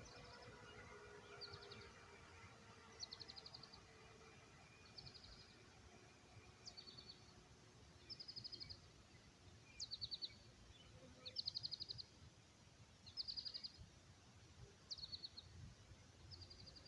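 A small songbird singing repeatedly: short, high, rapid trills, many opened by a quick downslurred note, given every second or two over a quiet outdoor background.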